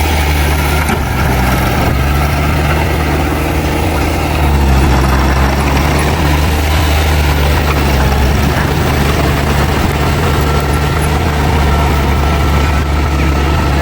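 Heavy diesel engine of earthmoving machinery running steadily with a deep hum, getting a little louder about four and a half seconds in.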